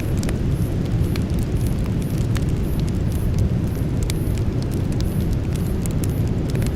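Campfire burning with irregular sharp crackles and pops from the burning wood over a steady low rumble.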